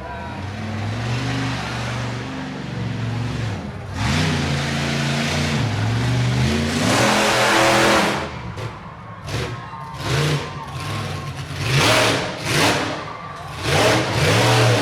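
Monster truck engines revving hard, their pitch climbing and dropping over several seconds, then a string of short, loud revs in the second half.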